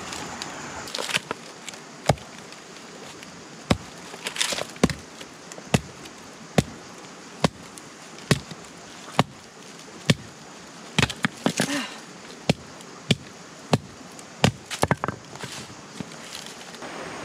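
A steady series of sharp knocks, one blow roughly every second, with a few quicker flurries of smaller knocks, like wood being chopped or struck with a tool. A steady rushing hiss lies underneath.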